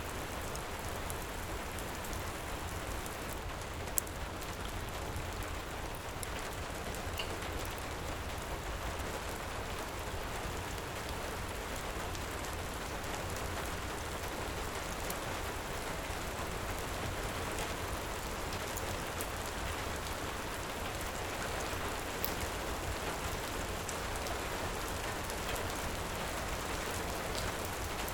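Heavy rain falling in a steady hiss, with scattered sharp pops from a crackling wood fire, one louder pop about four seconds in.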